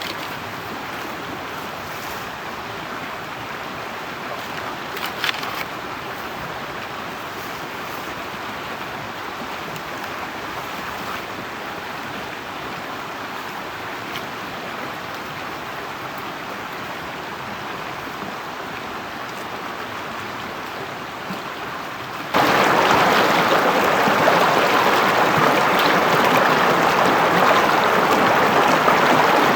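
Steady rush of flowing water, becoming much louder about 22 seconds in.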